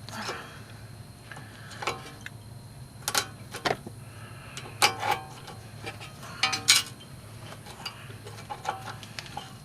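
Hand tools clicking and clinking against metal at irregular intervals, about ten sharp clicks with the loudest near the end, while a cotter pin is worked out of a tie rod end. A steady low hum runs underneath.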